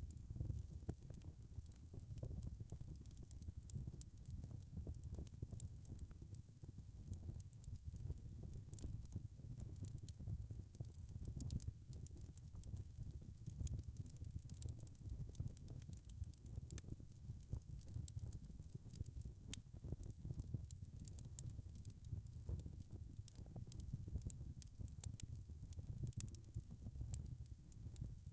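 Wood fire crackling: a steady low rumble of flames with a constant scatter of small, sharp pops.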